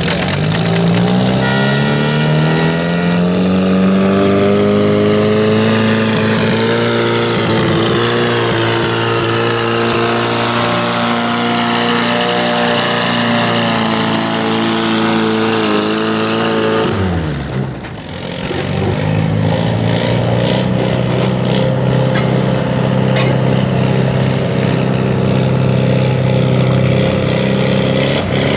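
Pulling tractor's engine revving up as it launches, then held at high revs under load for about sixteen seconds. About seventeen seconds in it drops off suddenly as the throttle comes back, then settles into a steady lower run.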